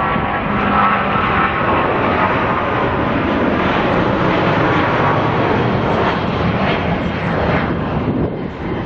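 Boeing 777-200's twin jet engines at takeoff power: a loud, steady rushing jet noise with a whining tone at the start that fades within the first couple of seconds, the sound dipping slightly near the end.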